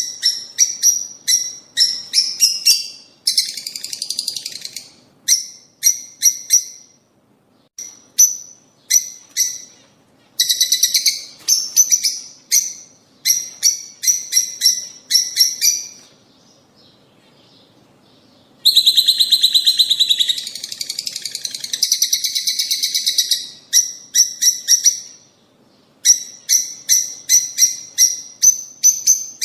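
Lovebirds chirping in runs of sharp, high, rapidly repeated calls. Near the middle there is a pause of a couple of seconds, then a stretch of dense, buzzy chattering before the chirp runs resume.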